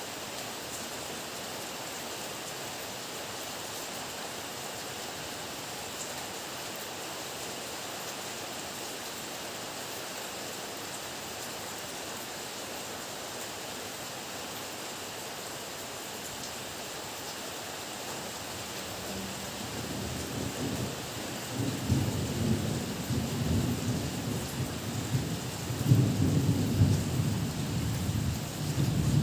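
Steady heavy rain hissing. About two-thirds of the way in, a low rumble of thunder builds and rolls on, growing louder and peaking near the end.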